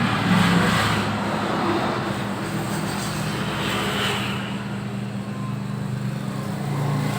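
Homemade 3 kg dough mixer running steadily, its electric motor giving a constant hum under a churning noise as it mixes flour with freshly added water.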